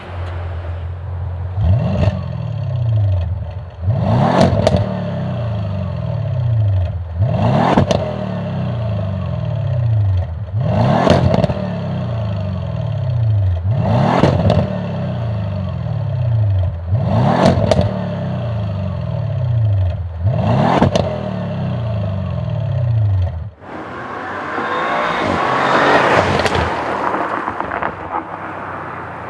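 Audi RS6 C7's twin-turbo V8 through a catted downpipe and valved cat-back exhaust, starting up and idling, then revved in seven short blips about every three seconds, each rising and falling back to idle. Near the end a louder rushing exhaust noise swells and fades.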